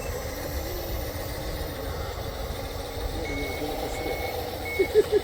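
A reversing alarm beeping on one high note, at about one and a half beeps a second. It starts a little past halfway, over a steady low rumble. Three short, loud sounds come in quick succession near the end.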